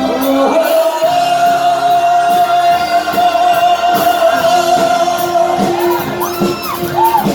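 Cantopop song performed live, a voice singing over a backing track. It holds one long steady note for several seconds, then ends in wavering slides in pitch.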